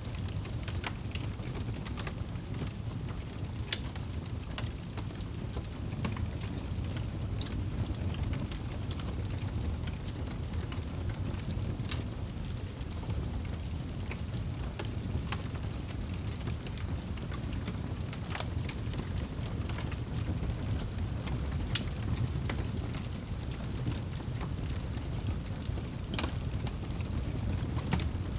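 Wood fire burning in a fireplace: irregular sharp crackles and pops over a steady low rush of the flames.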